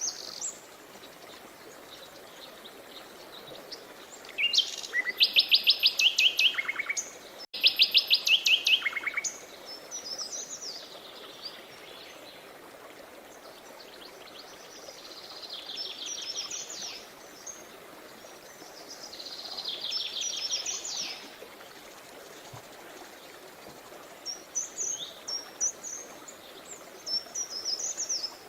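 Songbirds singing rapid trills of quick repeated notes over a steady wash of running river water. The loudest trills come a few seconds in, with quieter trills and scattered chirps later.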